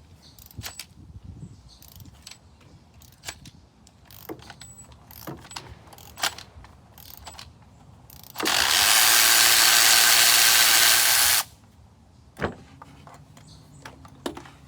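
Ratchet clicking and hand tools clinking on the engine while the spark plugs are being removed. About eight seconds in, a loud steady hiss lasting about three seconds cuts off sharply.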